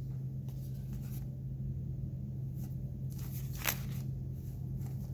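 Faint hand-work sounds of fly tying while hackle is readied for palmering: a few light rustles and small ticks, the sharpest about three and a half seconds in, over a steady low hum.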